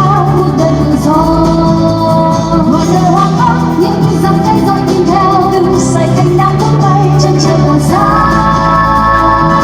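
A woman singing a slow held melody over backing music.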